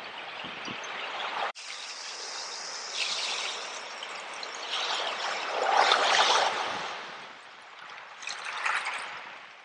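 Ocean waves washing in and drawing back, the rush swelling to its loudest about six seconds in and again briefly near the end. A sudden split-second gap about one and a half seconds in.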